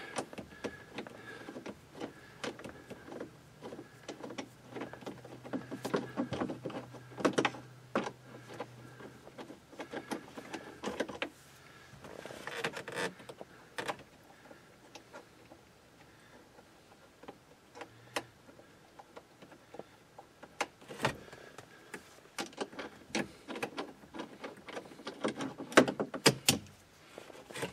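Scattered clicks, knocks and scrapes of a hand socket tool and metal fasteners being worked on a 10 mm bolt in a car's dashboard, with a faint low hum during the first half.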